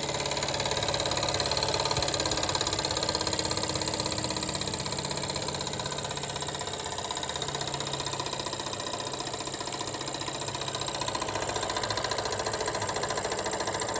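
Jensen #75 toy live steam engine running steadily under steam, its rapid even exhaust beats and moving parts making a fast, continuous clatter.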